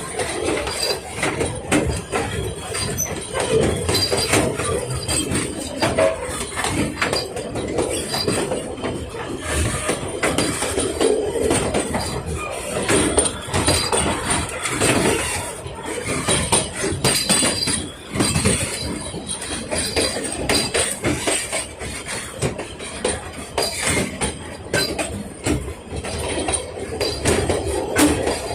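Narrow-gauge steam train hauled by NA-class locomotive 8A under way, its wheels, couplings and carriages clanking and rattling in a continuous, irregular clatter.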